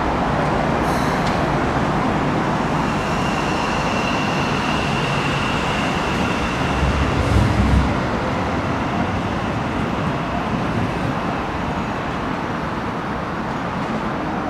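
Keikyu electric commuter train running alongside the station platform: a steady rumble of wheels on rail, with a faint high whine for a few seconds in the middle and a brief low bump about seven seconds in.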